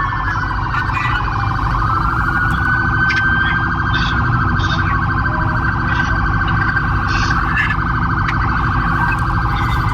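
Police sirens wailing, their pitch slowly rising and falling, with more than one siren overlapping, over a low steady engine rumble.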